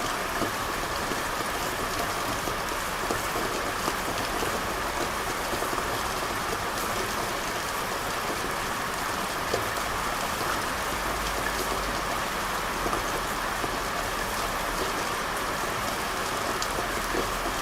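Steady rain falling on hard surfaces, an even hiss with scattered individual drop ticks.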